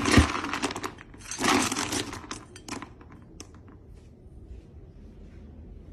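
Crinkly rustling in two bursts over the first three seconds, with a few sharp crackles, then faint room noise.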